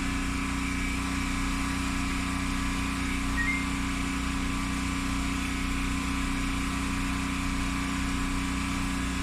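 Steady machine hum with several fixed pitches, and one brief faint high beep about three and a half seconds in.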